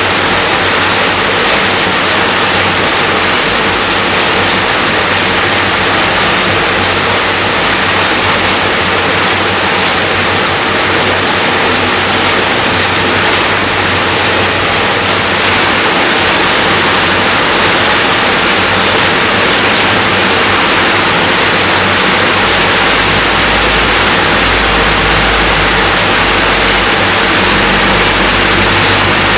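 Steady, dense rainfall: a constant hiss of drops with no breaks. A low rumble grows beneath it about 22 seconds in.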